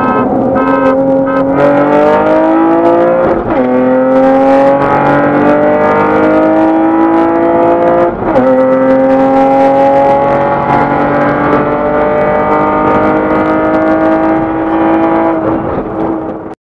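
Acura TL's V6 engine at full throttle, heard from inside the cabin, its pitch climbing steadily through the gears and falling back at each upshift, most clearly about 3.5 and 8 seconds in. This is a wide-open-throttle roll race from about 50 to 120 mph.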